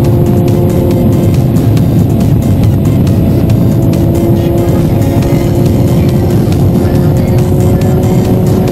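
Sport motorcycle engine running at a steady, nearly constant pitch under heavy wind rumble.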